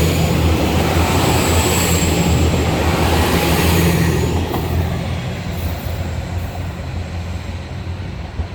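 KiHa 281 series diesel railcar running, its diesel engines droning under rumbling running noise; the sound eases off about four seconds in and carries on lower.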